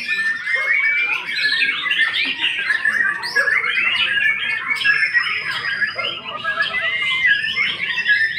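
White-rumped shama (murai batu) singing a continuous, rapid song of varied whistles and chattering notes, running through its learned repertoire of other birds' calls.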